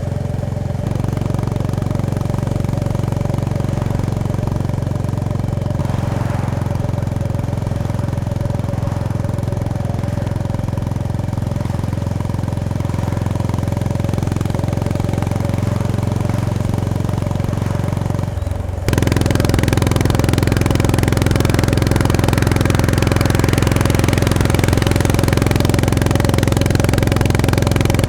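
Honda GB350S's air-cooled single-cylinder engine and exhaust running steadily under way. About two-thirds through, the sound dips for a moment, then comes back louder with much more wind and road hiss.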